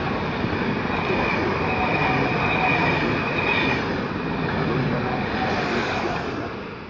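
A Trenitalia Frecciabianca Pendolino electric trainset passing close by: a loud, steady rush of wheels on rail, with a thin high whine that stops about halfway. The noise fades near the end as the train draws away.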